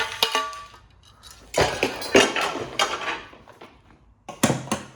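Steel machine parts knocking and clanking as they are handled and taken apart. One strike at the start rings briefly, a longer run of rattling and knocking follows in the middle, and a couple of sharp knocks come near the end.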